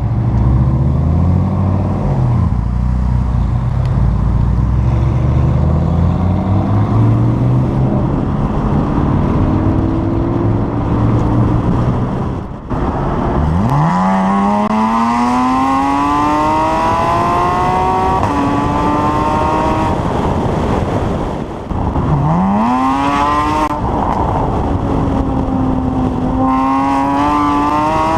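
Porsche 981 Boxster S flat-six with an Armytrix valved exhaust, accelerating hard through the gears. The engine runs at lower revs with wandering pitch at first. After a brief lift about halfway, the revs climb steeply in a rising howl. A gear change near three quarters cuts it off, and then the revs climb again.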